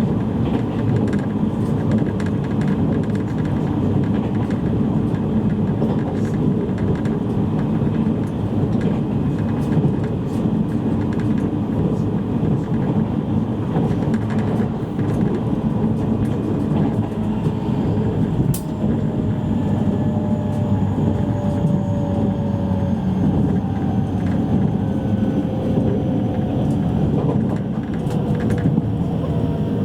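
Cabin sound of a JR East E653 series electric train running on the line: a steady wheel-and-rail rumble, with the motor whine falling slowly in pitch in the second half as the train slows toward a stop. A single sharp click a little past halfway.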